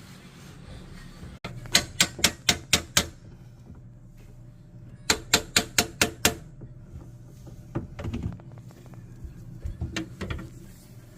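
Two quick runs of sharp tapping strikes, about five a second, then a few duller knocks, from tool work on a floor-heating distribution manifold during valve replacement.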